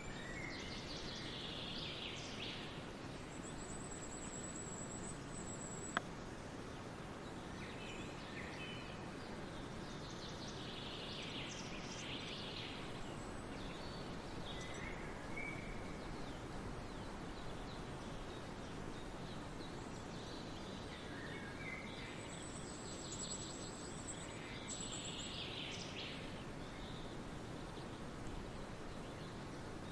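Forest ambience: birds singing in scattered bursts over a steady background hiss, with a thin high trill heard twice and a single sharp click about six seconds in.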